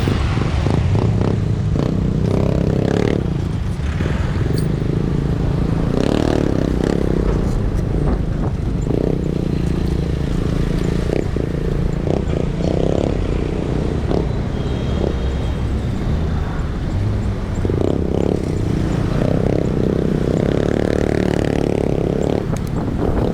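Steady road and traffic noise from riding on a city street: motor vehicles running and passing, with scattered short clicks and rattles.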